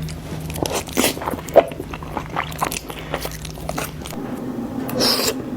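Close-miked eating sounds: a run of bites and chewing with sharp, crunchy clicks, one louder snap about a second and a half in, and a brief hissing burst near the end, over a faint low hum that stops about four seconds in.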